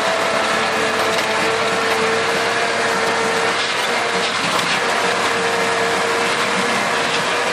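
Tractor engine running steadily under load while driving a rotary implement, a continuous loud mechanical din with a steady engine tone and churning noise.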